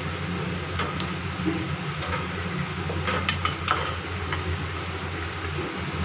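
Alu vadi pieces shallow-frying in oil in a pan: sizzling with scattered crackles and pops, over a steady low hum.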